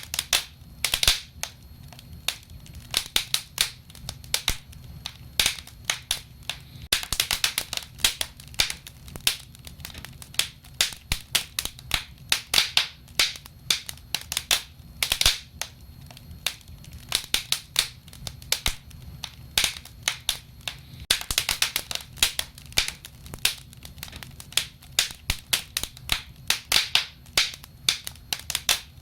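Wood fire burning, with frequent irregular sharp crackles and pops over a low steady rumble of the flames.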